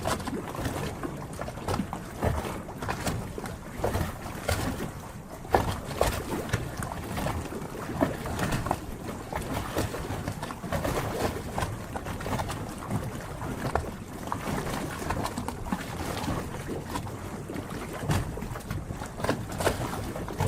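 Harbor water lapping and splashing, with many small irregular slaps.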